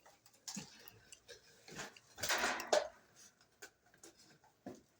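Light clicks, taps and rattles of things being handled, with a louder scrape or rustle about two seconds in, as the bird box and cage are made ready to let a budgie in.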